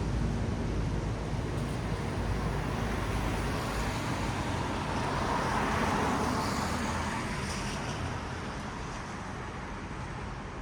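Traffic on a wet city road: tyre hiss on wet asphalt over a low engine rumble, swelling as a vehicle passes about six seconds in, then fading.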